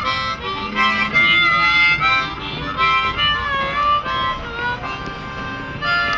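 Harmonica playing a melody in short phrases, with some notes bent in pitch.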